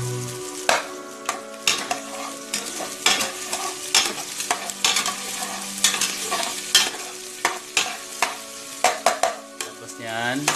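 Chopped garlic, onion and ginger frying in oil in a metal cooking pot while a utensil stirs them, scraping and clicking against the pot at an irregular pace. The aromatics are being sautéed until brown.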